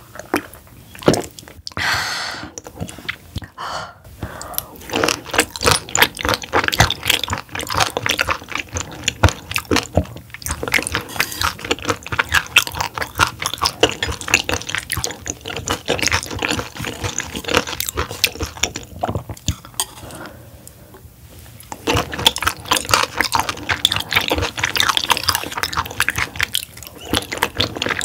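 Close-miked wet chewing and smacking of raw roughscale sole sashimi: a rapid run of sticky, squishy mouth clicks that eases off briefly about two-thirds of the way through, then resumes.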